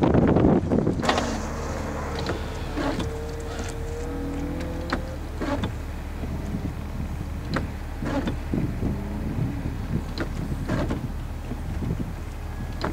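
1988 Toyota Supra's straight-six running, heard from inside the cabin: loud for the first second, then settling to a steady low idle. Over the idle, the windshield wipers sweep the wet glass, giving short swishes and knocks that come roughly in pairs every couple of seconds.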